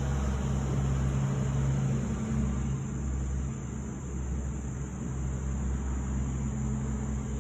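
Steady low rumble from a motor or road traffic, with a continuous high-pitched buzz of insects such as katydids.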